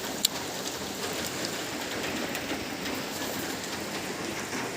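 Steady rain falling on surfaces, with scattered drip ticks and one sharp tap about a quarter second in.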